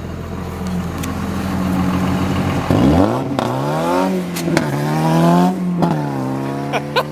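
Ford Focus's four-cylinder Zetec engine revving hard and pulling up through the gears, its pitch climbing, dropping back at each quick shift and climbing again.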